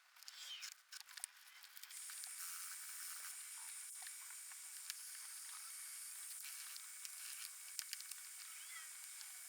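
Black & Decker steamer hissing steadily, starting about two seconds in after a few light clicks and rustles.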